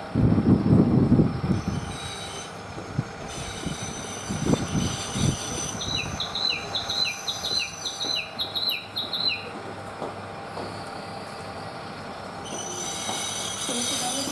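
Tsugaru Railway diesel railcar creeping up to couple with a standing car, its wheels squealing with a thin steady high tone, with a loud low rumble in the first second and a half and a few low knocks. A bird chirps over and over in the middle, about two short falling chirps a second.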